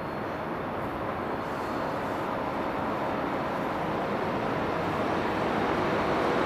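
ChS2T electric locomotive hauling a passenger train on approach: a steady rolling noise of the train on the rails, growing steadily louder as it comes nearer.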